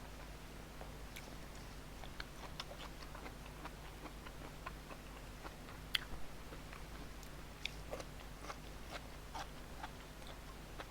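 A person chewing and biting food close to the microphone, with irregular small mouth clicks and smacks. A sharper click comes about six seconds in.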